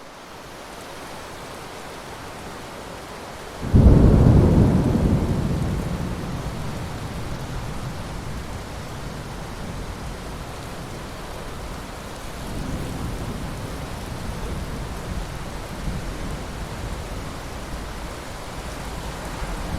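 Steady rain falling, with a loud clap of thunder about four seconds in that rolls off slowly over several seconds, followed by fainter rumbles of thunder later on.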